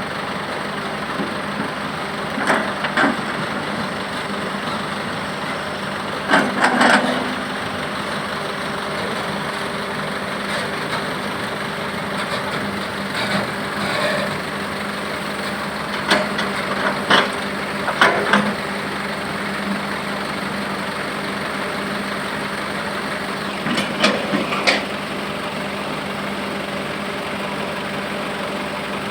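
Heavy vehicle engine idling steadily, with a few short, sharp knocks and clatters now and then.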